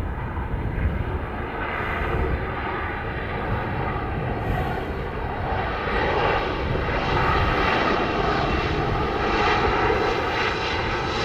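Airliner's engines running as it passes the airport, a steady noise with faint held tones that grows louder about halfway through and stays up.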